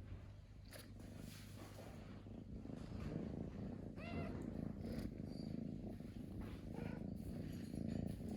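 A cat purring steadily close up, with a brief high call about halfway through.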